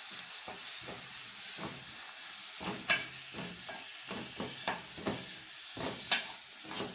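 Chopped onions, tomatoes and spices frying in hot oil in a metal pot, a steady sizzling hiss, while a spoon stirs the mix, clicking and scraping against the pot every second or so.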